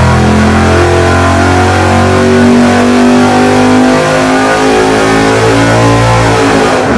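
Engine fitted with a solid roller camshaft and lifters, making a full-throttle dyno pull. It runs loud and steady, its pitch climbing as the revs rise, and it cuts off near the end.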